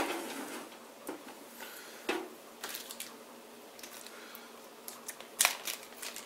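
Knocks and clatters of a PC power supply being handled and set into a computer case: a sharp knock right at the start, another about two seconds in, a few light clicks, and a second loud knock about five seconds in.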